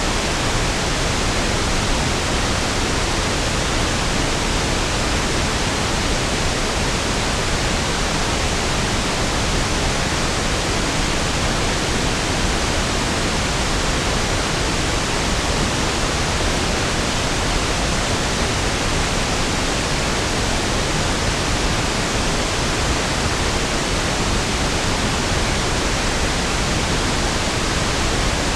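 Steady pink noise (1/f noise): an even, unchanging hiss with equal energy per octave, fuller and smoother in the lows than white noise.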